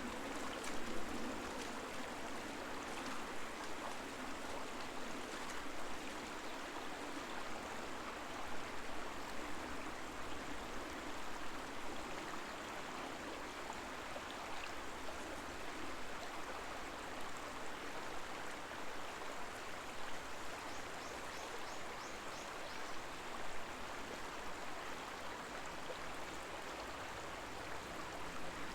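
The Koma River murmuring: a steady, even rush of flowing shallow river water.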